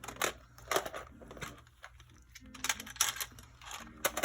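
Small objects being picked up, moved and set down on a tabletop: a string of irregular light taps, clicks and rustles.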